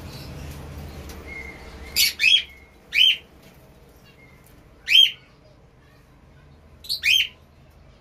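Caged birds calling: six short, loud, shrill chirps, in pairs about two and seven seconds in and singly at about three and five seconds.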